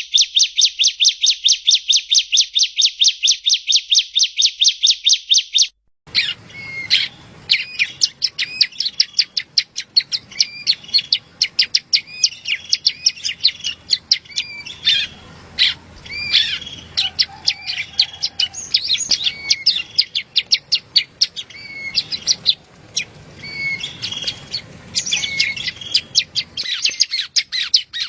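Yellow-bellied prinia (prenjak rowo) song: a fast, even trill of repeated notes for about six seconds. It cuts to a different recording of the bird giving varied chirps and short, irregular phrases over light background noise.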